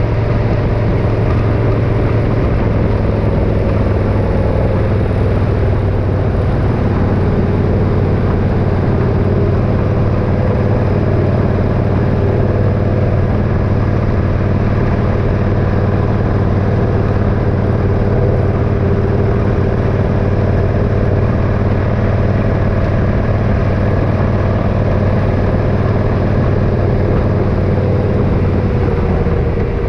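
Motorcycle engine running at a steady cruising speed while riding, the engine note holding level throughout.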